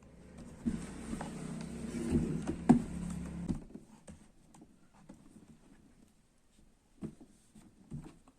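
Handling of a laptop's plastic case while it is closed back up: rubbing and sharp plastic clicks over the first few seconds, the loudest about three seconds in, then two light knocks near the end.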